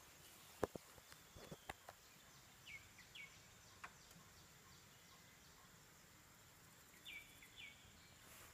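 Near silence outdoors, with no engine running: a few faint sharp clicks in the first two seconds, and short downward-sliding bird chirps in pairs about three seconds in and again near the end.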